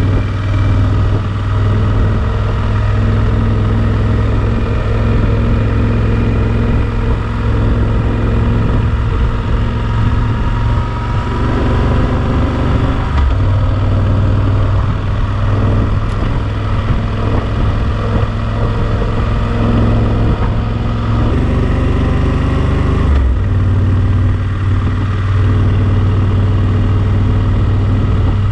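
Yamaha Super Ténéré XT1200's parallel-twin engine running steadily under way, with wind rush over the camera microphone. The sound shifts abruptly a few times.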